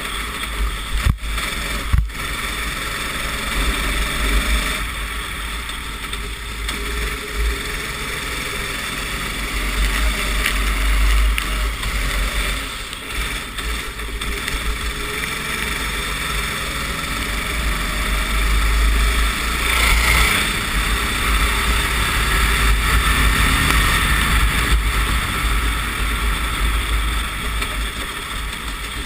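Racing go-kart engine heard from onboard, its note rising and falling as it accelerates and brakes around a wet track, with heavy wind rumble on the microphone. There are a couple of sharp knocks about a second and two seconds in.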